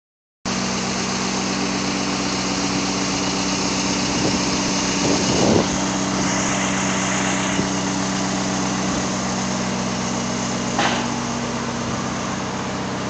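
Engine of a crane truck running steadily with an even hum, with a few short knocks about four to five and a half seconds in and again near eleven seconds.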